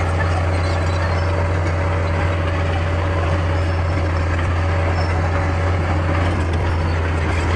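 A bulldozer's diesel engine running steadily with a strong low drone, and a faint higher steady tone that stops about six seconds in.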